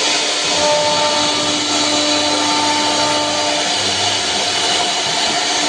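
CNC router running steadily as it cuts or grooves a wooden door panel: a steady whine over a loud, even machining noise.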